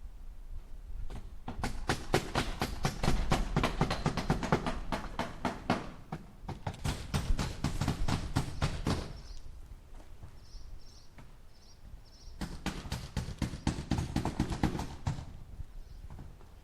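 Hammer driving nails into wood: three runs of quick, even blows, several a second, separated by short pauses.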